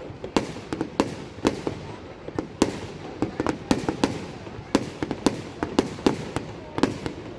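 Fireworks display: sharp bangs of bursting fireworks in quick, irregular succession, about two a second, over a continuous background of noise.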